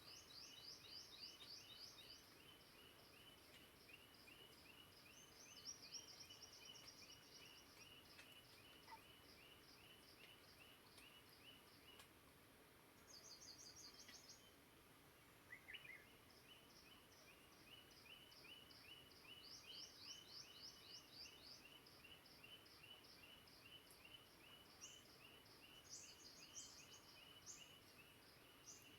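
Faint birdsong: a steady series of short chirps, about two a second, with bursts of rapid, higher trills every few seconds, over a soft even hiss.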